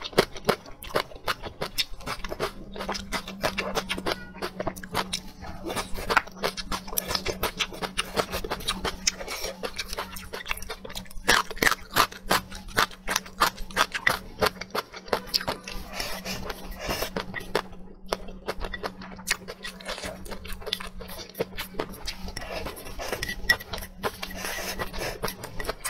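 Close-miked chewing and mouth smacking of a mouthful of rice and braised food, with many quick wet clicks. Chopsticks scrape the edge of a clay bowl as rice is pushed into the mouth. A steady low hum comes in about two seconds in.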